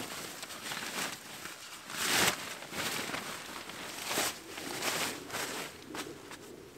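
Irregular rustling and scuffing of someone handling camping gear or moving about on the ground, the loudest rustle about two seconds in.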